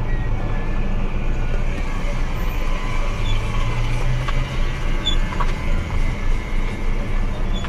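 Car engine and road noise heard inside the cabin through a dashcam microphone as the car rolls slowly: a steady low drone.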